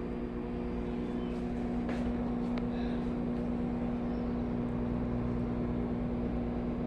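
Microwave oven running with a steady hum while it heats a marshmallow s'more.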